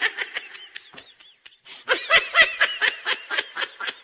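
Laughter: a long run of short, high ha-ha sounds, about five a second, easing briefly a little after a second in.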